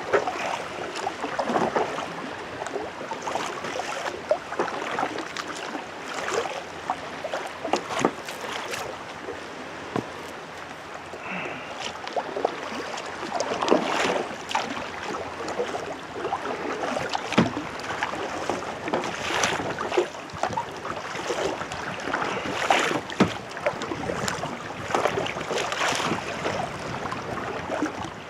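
Kayak paddle strokes dipping and splashing every second or two, with water sloshing against the hull in choppy water and some wind on the microphone.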